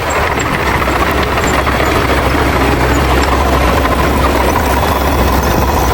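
Bulldozer's diesel engine running steadily at an even speed, with a deep hum.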